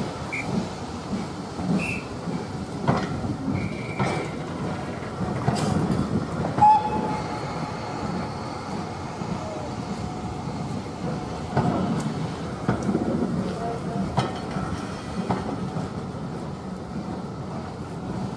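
Steam train rolling out of a station: a steady rumble with scattered clicks from the wheels and a few short, high squeals, the loudest about a third of the way through.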